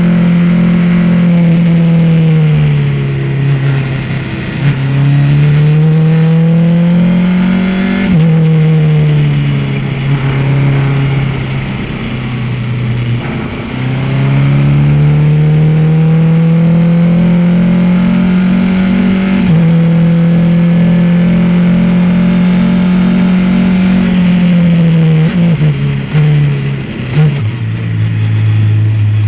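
Race car engine under hard acceleration, its pitch climbing steadily and dropping sharply at upshifts about eight and about nineteen seconds in. Near the end it winds down with quick blips as the driver brakes and downshifts for a corner.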